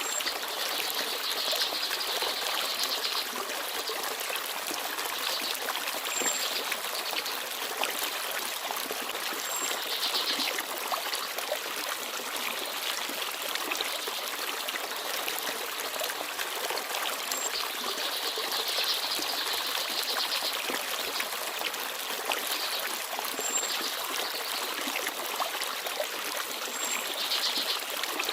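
Forest stream babbling steadily over stones. Small birds chirp now and then with short high notes and a few brief trills.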